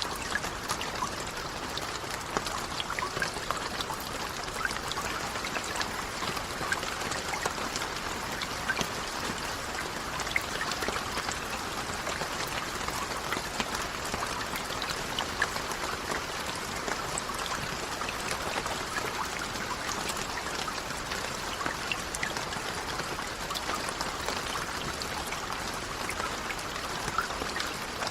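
Steady rain, an even hiss dotted with many separate drop clicks throughout.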